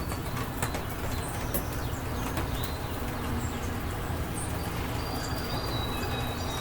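Steady rain falling, with a constant low rumble underneath and many sharp individual drops ticking. A few short high bird chirps sound over it.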